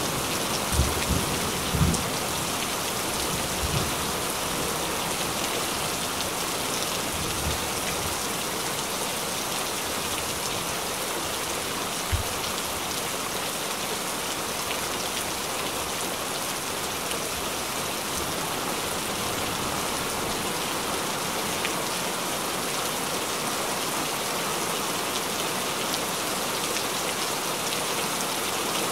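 Steady rain falling on a pond, an even hiss, with a few low thumps in the first few seconds and one more about twelve seconds in.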